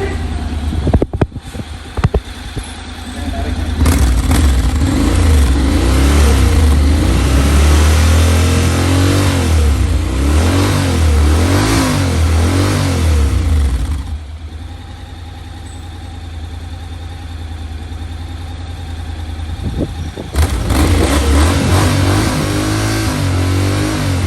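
Honda X-ADV 750's parallel-twin engine running through its stock exhaust. A few quick throttle blips come early, then a long spell of repeated revving that rises and falls, easing to a steadier idle about halfway through before being revved again near the end.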